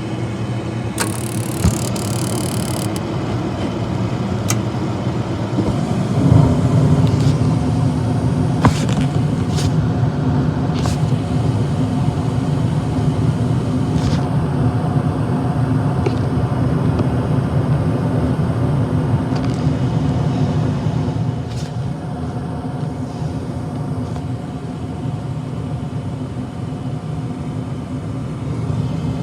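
Steady low machine hum that gets louder about six seconds in, with a few sharp clicks.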